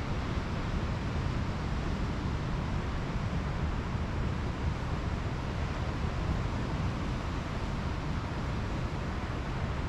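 Pacific Ocean surf washing onto a beach: a steady, even rush of noise with a low rumble underneath.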